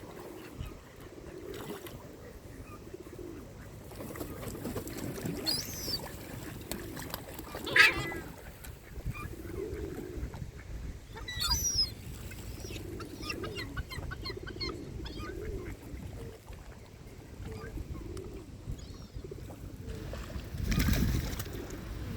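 Waterbirds calling: repeated short low calls throughout, with a few sharper, higher cries about 6, 8 and 11 seconds in, the loudest about 8 seconds in. A brief rush of noise comes near the end.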